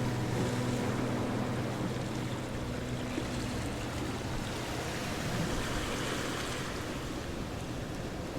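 Ocean waves washing onto a shore in a steady rush, swelling about five seconds in. Low held notes from a fading guitar-like music track trail off over the first few seconds.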